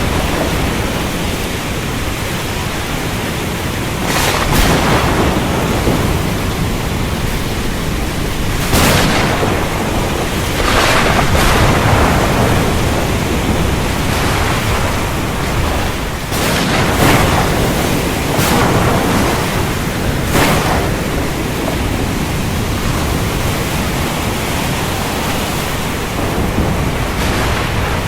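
Heavy rain with thunder: a loud, continuous rushing noise with a deep rumble underneath, and several brief louder cracks and surges a few seconds apart.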